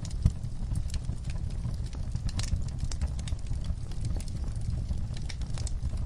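Wood fire burning in a fireplace: a low steady rumble of flames with irregular sharp crackles and pops.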